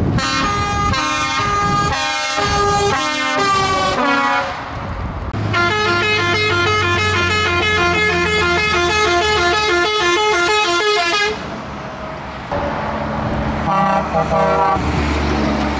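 Truck musical horns playing tunes, note after note: one melody for about four seconds, then a longer repeating tune for about six seconds. Near the end, a truck engine runs under a few more short horn notes.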